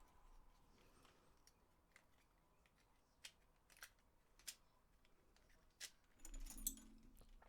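Faint clicks and taps of a PS4 controller's plastic shell and circuit board being handled and fitted together: a few single clicks spaced about half a second to a second apart, then a short cluster of rattling clicks near the end.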